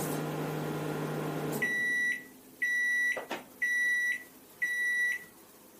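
Samsung MS23K3513AK microwave oven running with a steady hum that cuts off about one and a half seconds in as the timer runs out. It then gives four high beeps about a second apart, signalling the end of cooking.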